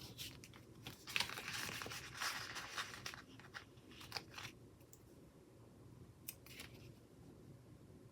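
Paper stickers being handled and peeled from their backing sheet: a faint rustling, tearing stretch about a second in lasting some two seconds, followed by scattered light taps and crinkles.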